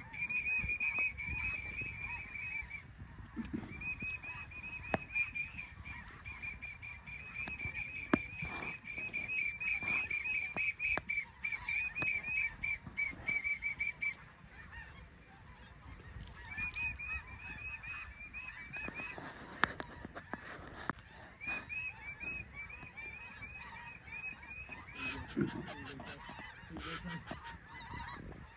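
Geese calling: long runs of rapid, high-pitched honks that break off about fourteen seconds in and start again a couple of seconds later.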